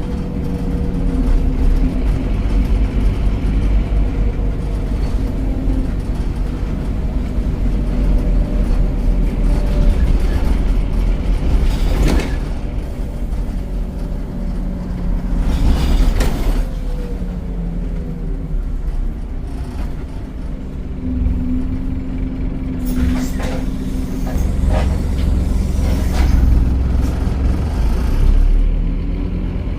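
Scania DC9 9.3-litre diesel engine of a Scania OmniCity bus running under way, its note falling and rising as the bus slows and pulls away through its ZF automatic gearbox. A few short sharp noises come about twelve and sixteen seconds in, and in a cluster near the end.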